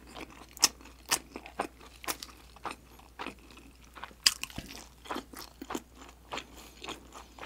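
A person chewing dumplings with the mouth closed: irregular wet clicks and smacks, two or three a second.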